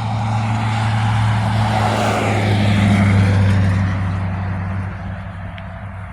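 A motor vehicle passing close by: its sound swells to a peak about three seconds in, then fades, over a steady low engine hum.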